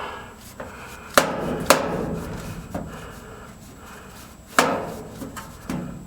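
Sharp knocks and bangs against the return-air ductwork as debris is worked out of it by hand: two loud hits about a second apart early on, another loud one about four and a half seconds in, and smaller knocks between, each with a brief ring.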